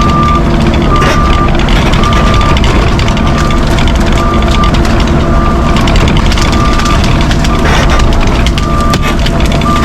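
Heavy equipment's diesel engine running under a backup alarm that beeps about once a second, with scattered knocks and clatter on top.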